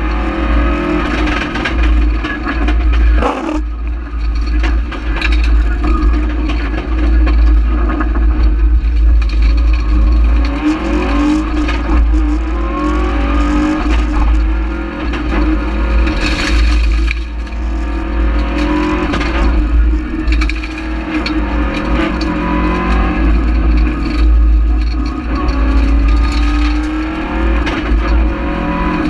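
Rally car engine heard from inside the cockpit at full stage pace, its pitch climbing and dropping back again and again through the gears, over a constant low road rumble with occasional knocks.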